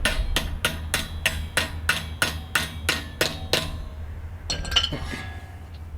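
A hammer gently tapping a cap onto the wheel axle of a Weber kettle grill. About a dozen even, ringing taps come at roughly three a second, then stop, followed by a couple of lighter metal clinks.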